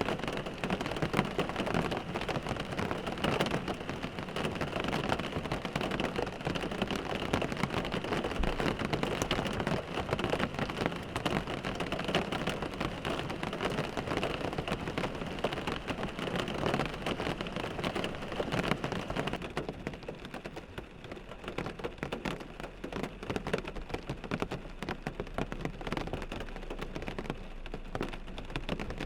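Steady rain pattering on a car windshield, a dense rush of countless small drop ticks, easing a little after about twenty seconds.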